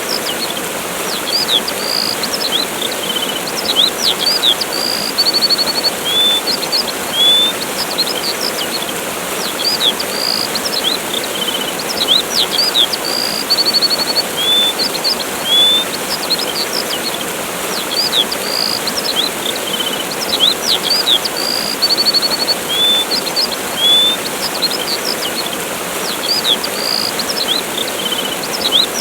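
Steady rush of a waterfall with small birds chirping over it: short rising whistles, quick trills and sharp downward chirps. The same run of calls repeats about every eight seconds, as in a loop.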